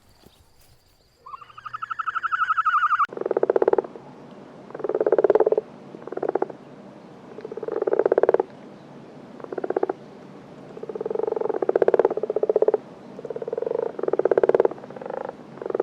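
An animal calling: one rising tonal call, then a run of short rattling, rapidly pulsed calls, one every second or two.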